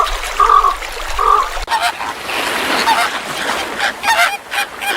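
Goose honking, loud calls evenly spaced about every 0.7 seconds. After a cut nearly two seconds in, the sound changes to busier, overlapping honks and calls.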